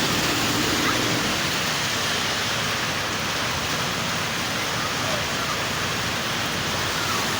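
Steady medium rain falling, an even continuous hiss of rain.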